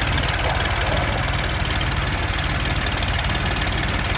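Tractor diesel engine running steadily, with a fast, even knocking beat.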